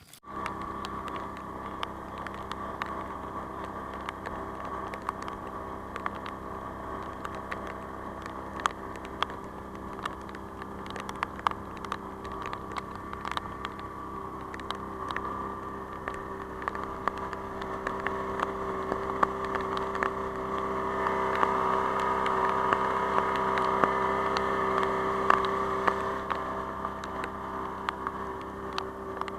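Boat engine running steadily while under way, with scattered sharp ticks over it; it grows a little louder for several seconds about two-thirds of the way through.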